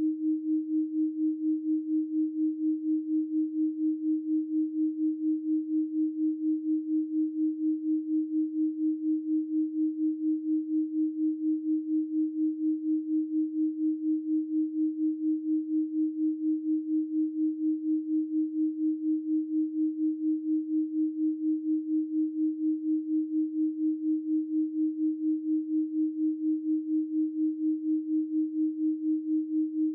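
Electronically generated 312 Hz sine tone, held steady at one pitch with a quick, even pulsing in loudness.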